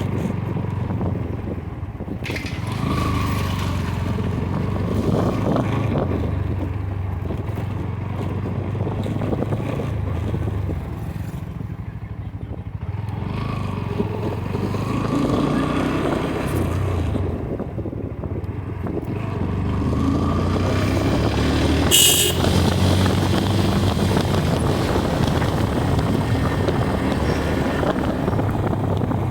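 Motorcycle engine running steadily under way, its pitch rising and falling with the throttle, with road and wind noise. A brief sharp noise cuts through about three quarters of the way in.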